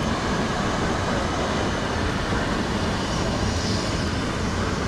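Steady running noise of a steam-hauled excursion train, heard from aboard one of its open-sided passenger cars: a dense, even rumble of wheels and cars on the track.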